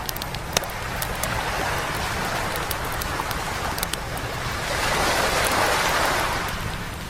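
Sea waves breaking on a beach, one swelling in and washing back out, loudest about five to six seconds in, with the scattered crackles and sharp pops of a wood campfire over it.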